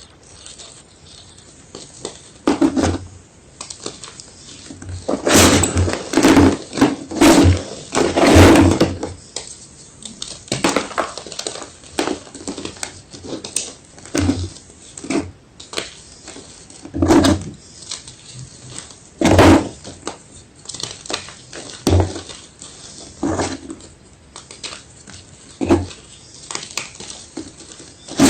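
White gym chalk being bitten and chewed, giving sharp crunches at irregular intervals. A rapid run of loud crunches comes about five to nine seconds in, then single crunches every second or two.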